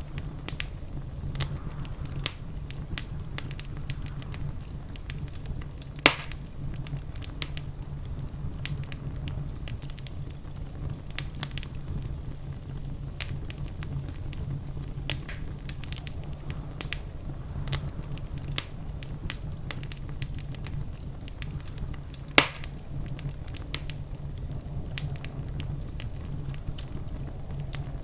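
Fire crackling in a fireplace: frequent small crackles over a steady low rumble, with two louder pops, one about six seconds in and one about twenty-two seconds in.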